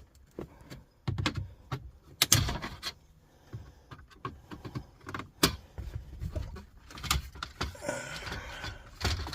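Plastic dashboard trim clips clicking and snapping as the face plate around the car radio is pried off, with scraping and handling noise in between; the loudest snaps come about two and five seconds in.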